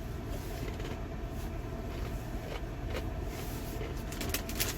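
Vehicle engine idling steadily, with a few short clicks and crackles, more of them near the end.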